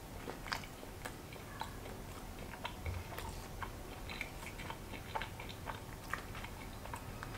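Faint chewing of a bite of pretzel-crust pizza with the mouth closed, heard as small, irregular wet clicks and smacks.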